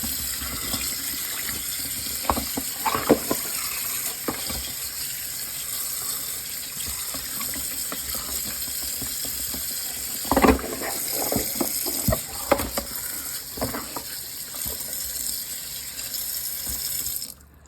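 Kitchen tap running steadily into a sink, with occasional knocks and clatters as things are handled under the water. The sound cuts off suddenly near the end.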